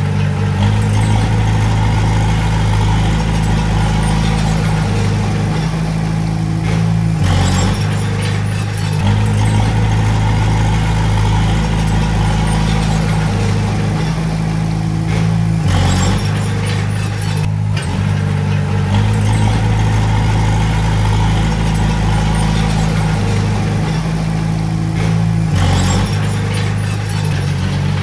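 Komatsu D20A bulldozer's diesel engine running steadily, with a brief change in the engine note and a knock three times, roughly every eight to nine seconds.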